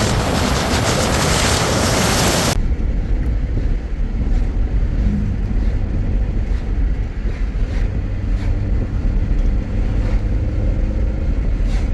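Vehicle noise heard from inside a moving car. A loud rushing noise for the first couple of seconds cuts off suddenly, leaving a steady low rumble of the engine and road.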